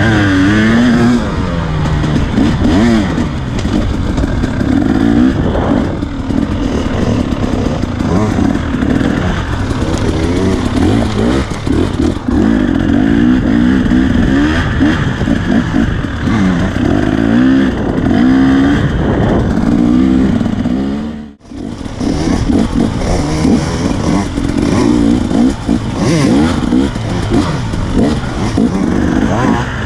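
KTM dirt bike engine revving up and down over and over as the bike is ridden hard along a tight trail. About two-thirds of the way in the sound drops out for a moment, then the revving picks up again.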